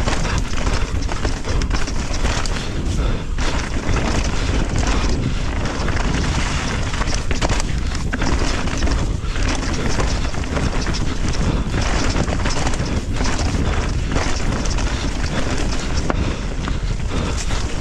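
Mountain bike descending fast on a dirt downhill trail: wind buffeting the microphone over steady rolling noise, with frequent knocks and rattles as the bike hits bumps.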